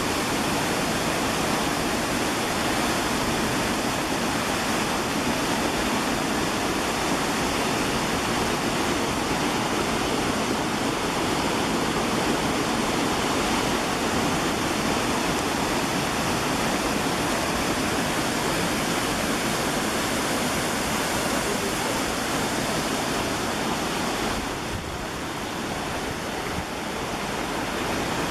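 Switzer Falls waterfall rushing with a steady roar of falling water, easing a little for a couple of seconds near the end.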